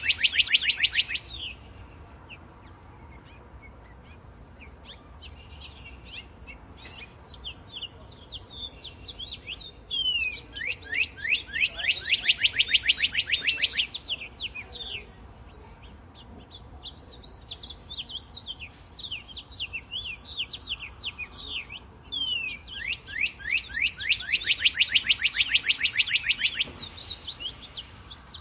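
A songbird singing a rapid trill of short, quickly repeated descending notes, about three seconds long, which comes back about three times. Single chirps and call notes fill the gaps between trills.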